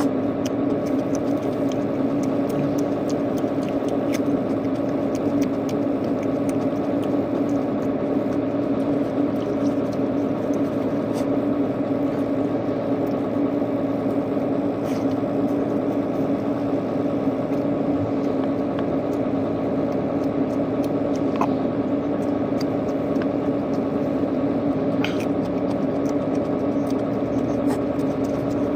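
A steady machine hum with several fixed tones that does not change, with scattered faint clicks and taps over it.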